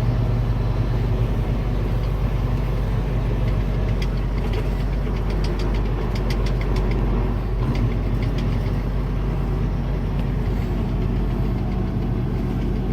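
Semi-truck's diesel engine running steadily, a constant low hum, with some light clicking in the middle few seconds.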